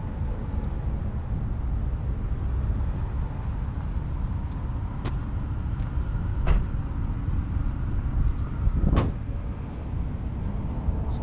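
A vehicle running steadily with a low rumble, with a few sharp knocks or rattles; the loudest comes near the end.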